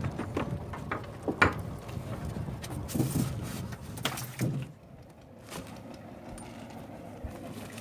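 Scattered knocks and clatter on a wooden boat's deck and gunwale, a few sharp thuds among lighter rattling.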